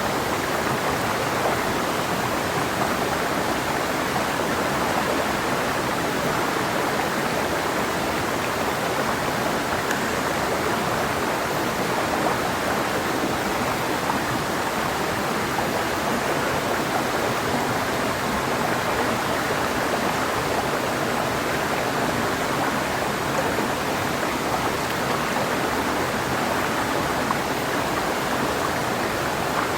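Clear mountain river flowing steadily over rocks, an even rushing with no breaks.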